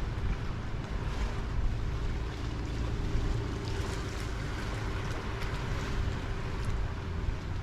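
Sea water washing against the shore with wind buffeting the microphone, a steady wash of sound with a low rumble and a faint steady hum underneath.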